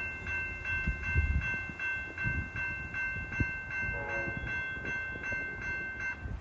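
Railroad bell ringing steadily, about two and a half strikes a second, stopping near the end, over a low, uneven rumble.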